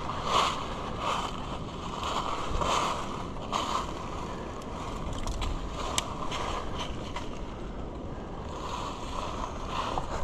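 Gusting wind buffeting the microphone over the low rumble of a farm vehicle moving along, with a few short clicks and knocks; one sharp click comes about six seconds in.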